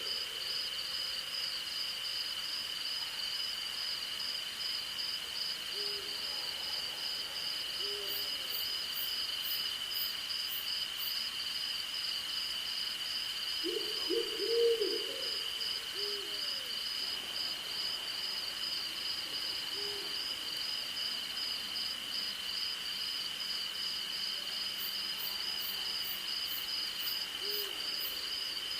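Night chorus of crickets and other insects: one steady high trill and a second one pulsing rapidly just above it, with bursts of faint very high ticking. An owl hoots over it, a quick run of hoots about halfway through and single hoots now and then.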